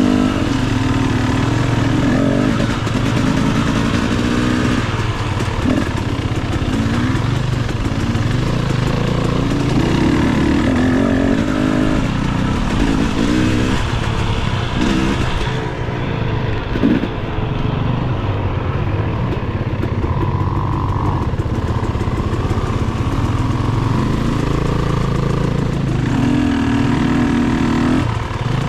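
Dirt bike engine running under load off-road, its revs rising and falling over and over as the throttle is worked, with a few brief knocks partway through.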